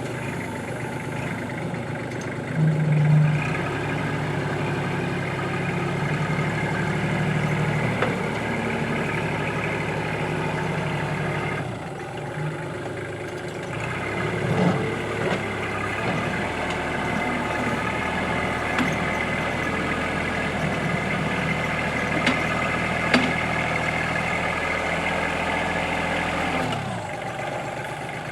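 Kubota backhoe's diesel engine working under load as its front bucket pushes and scrapes across very hard lamproite rock. The engine note dips briefly about halfway and again near the end, and a few sharp knocks sound as the bucket edge grinds over the rock.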